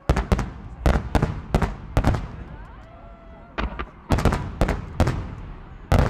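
Aerial firework shells bursting in quick volleys of sharp bangs, with a lull of about a second and a half a little before halfway, after which the bangs come again.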